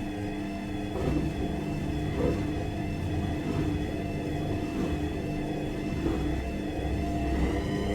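Washing machine running: its motor hums with a steady whine over a low rumble, and the rumble picks up about a second in.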